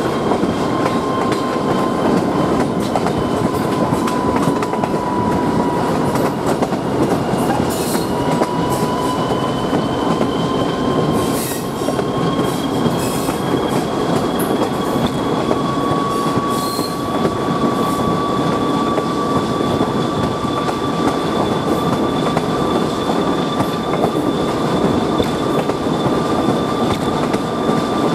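Passenger train rolling along: a steady rumble of wheels on rail under a long, thin wheel squeal that dips slightly in pitch and then slowly rises, with scattered sharp clicks midway.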